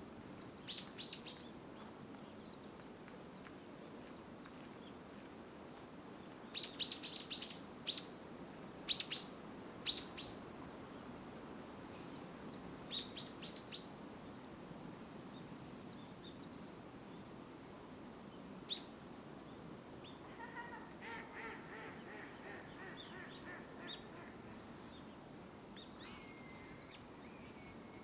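Wild birds calling: several quick clusters of short, high, falling chirps, then a run of lower repeated nasal notes about two-thirds of the way in, and a warbling call near the end, over a faint steady background hiss.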